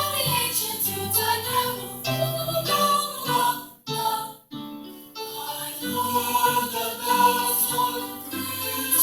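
School chorus singing a medley of Christmas songs, with a short break about four seconds in before the singing resumes.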